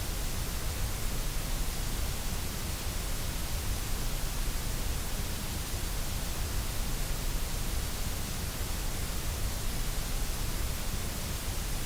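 Steady white noise: an even, unchanging hiss that does not vary.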